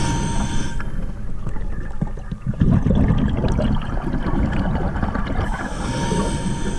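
Muffled underwater sound on a scuba dive: a low rumble and gurgling water, with many small clicks and knocks from gloved hands handling fishing lures and line.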